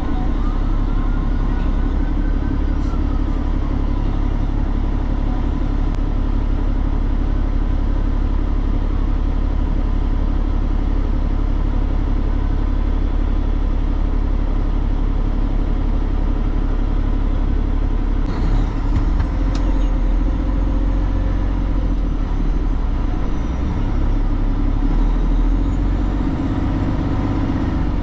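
Semi-truck engine running steadily: a constant low rumble, with a few faint clicks.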